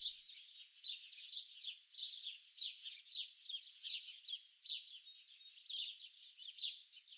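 Songbirds chirping and singing: a steady run of short, high chirps, about two a second, with nothing in the low range.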